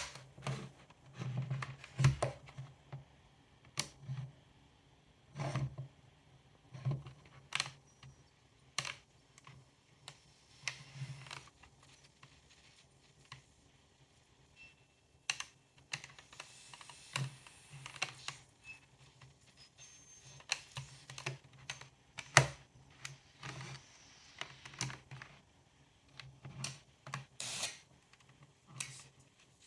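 Irregular plastic clicks and taps, a second or so apart, as the cassette player's buttons and switches are worked, over a faint steady low hum.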